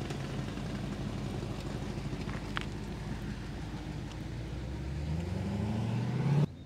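A car engine runs at low revs as the car drives by, then rises in pitch as it accelerates over the last two seconds, and the sound cuts off suddenly near the end.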